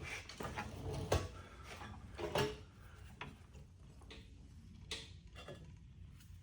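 Scattered light clicks and knocks of tools and suspension parts being handled, a handful of separate strikes a second or so apart.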